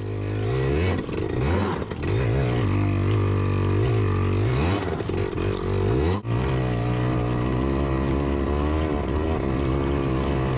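Yamaha PW80's small two-stroke single-cylinder engine revving up and down under load on a hill climb. It drops out for an instant about six seconds in, then holds a steady high rev.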